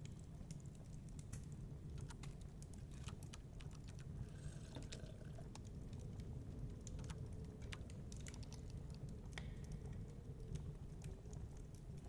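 Wood fire crackling in a fireplace: irregular small pops and snaps over a steady low rumble, with a short hiss about four seconds in.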